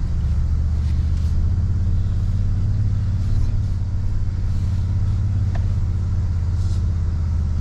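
Toyota Tundra pickup's engine running steadily at low revs, a constant low drone.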